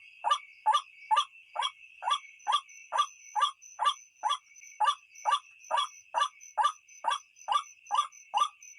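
White-breasted waterhen calling: a fast, regular series of short harsh notes, about two to three a second, over a steady high drone.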